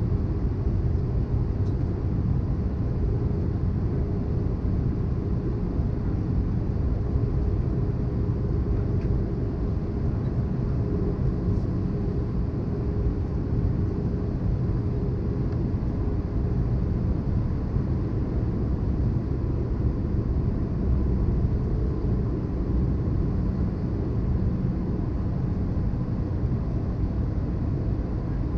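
Steady cabin noise of an Airbus A320-214 in descent: an even low rumble of airflow and its CFM56 engines, with a faint steady hum above it.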